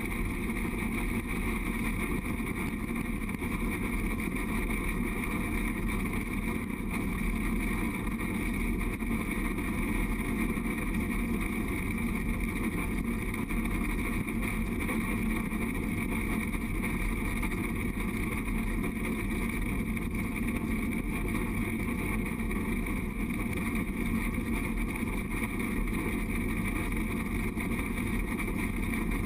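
Durango & Silverton narrow-gauge train running steadily along the track, heard from on board: a constant drone and hiss of the moving train that doesn't change.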